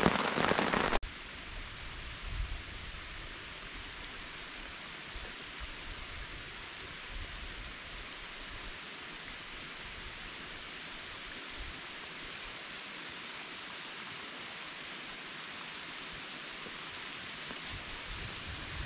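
Steady rain falling on a lake during a thunderstorm, an even hiss. For about the first second a louder, denser rain sound plays, then cuts off suddenly.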